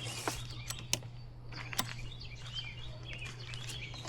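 Small birds chirping over a steady low hum, with three sharp clicks in the first two seconds.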